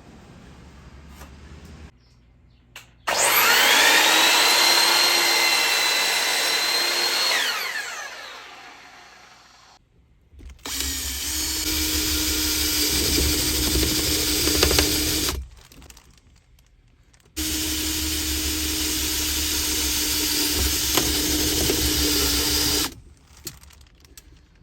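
Handheld power tool working wood in three runs, each several seconds long. The first spins up with a rising whine and winds down slowly. The later two run steadily under load and stop abruptly.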